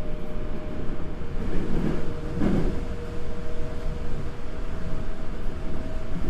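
Toei Asakusa Line 5300 series subway train running, heard from inside the motor car: a steady rumble carrying two steady tones, with a brief louder patch of noise about two and a half seconds in.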